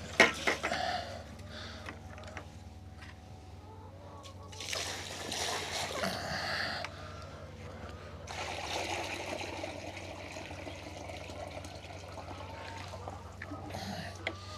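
Water running and splashing into a container in two spells of a few seconds each, with a sharp knock just after the start and another near the end.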